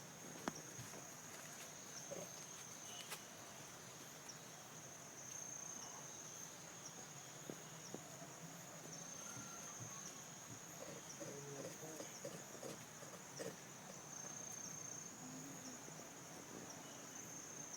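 Insects chirring: a faint, steady, high-pitched drone that swells a little at times, with a few faint clicks.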